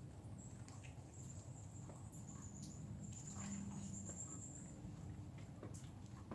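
Faint outdoor ambience: a thin, steady high-pitched buzz with scattered small ticks and clicks.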